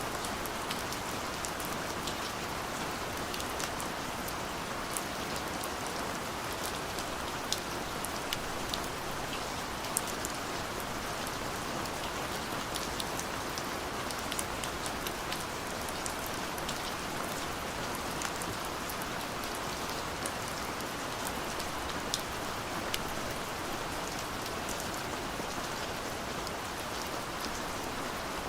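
Steady rain falling, an even hiss with many scattered sharp drop ticks throughout.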